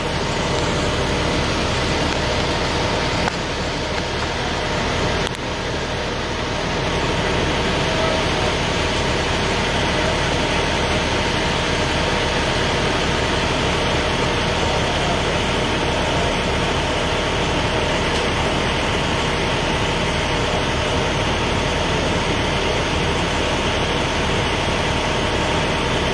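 A motor vehicle's engine idling steadily close by: a constant engine hum over an even rumbling noise.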